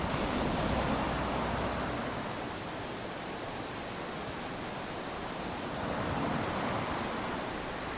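Small waves lapping onto a sandy beach: a steady wash of surf that swells twice, near the start and again about six seconds in.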